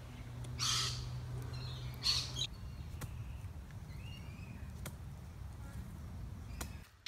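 Birds calling in the bush: two short, harsh calls about a second and a half apart and a few faint chirps, over a low steady rumble. A low hum stops after about two and a half seconds.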